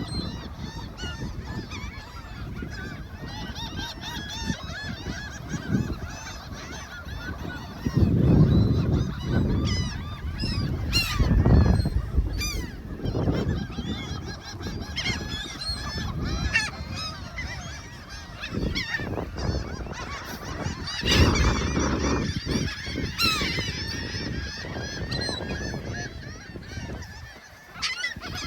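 A flock of seagulls calling over one another, many short squawks and mews overlapping without a break. Several bursts of low rumble come and go and are the loudest sound.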